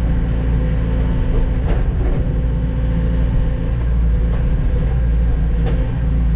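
Diesel engine of a log-loading machine running steadily under load, with a few light knocks as logs are handled.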